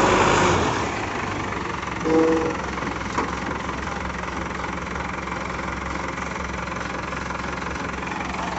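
Heavy diesel vehicle engine idling steadily, with a louder rush of noise at the start, a short steady tone about two seconds in, and a sharp click about three seconds in.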